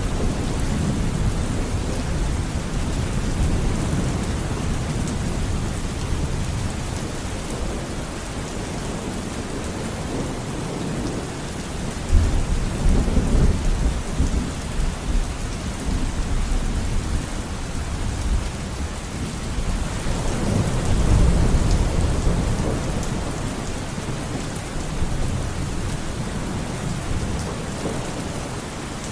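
Steady rain with thunder rumbling through it, the low rumbles swelling louder about halfway through and again about two-thirds of the way in.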